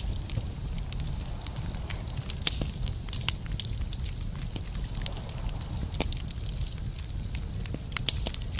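Wood fire burning in a fireplace: logs crackling and popping with irregular sharp snaps over a steady low rumble of the flames.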